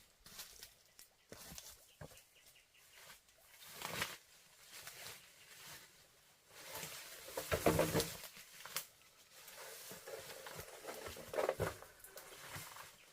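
Chickens flapping their wings and clucking in scattered short bursts, loudest about halfway through.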